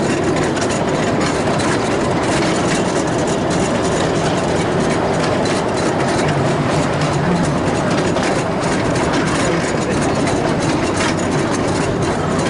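Miniature railway train running along its track: a steady rumble of the engine and wheels on the rails, with faint clicks throughout.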